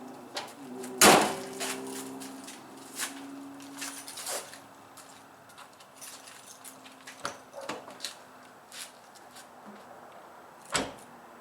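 Scattered clicks and knocks of handling, the loudest about a second in and another sharp knock near the end, over a faint steady hum that fades during the first few seconds.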